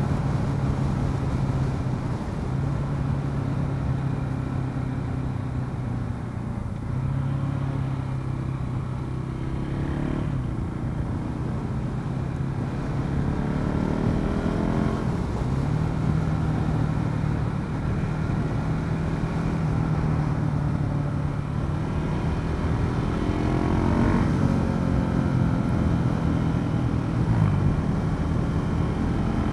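KTM 690 SMC R supermoto's single-cylinder engine running under way at a steady pitch, with brief dips at several gear changes and the revs climbing a couple of times.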